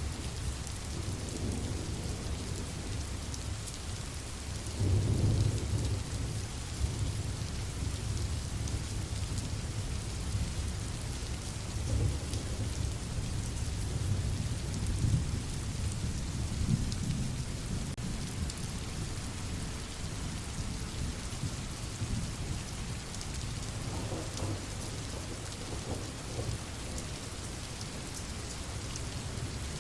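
Steady rainfall with low rolls of distant thunder, the loudest rumble about five seconds in and weaker ones later.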